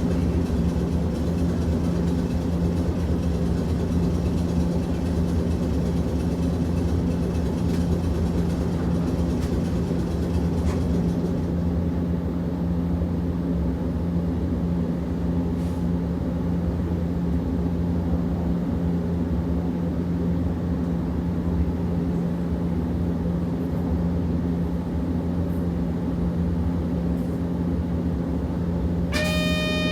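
Hiroshima Electric Railway 650-type tram heard from inside while running, a steady low hum and rumble. The higher rolling hiss eases after about twelve seconds, and a short pitched electronic tone sounds right at the end.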